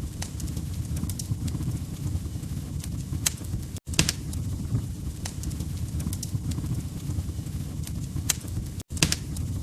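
Wood fire crackling: a steady low rumble with sharp pops scattered irregularly, about one or two a second. The sound cuts out for an instant twice, about four and nine seconds in.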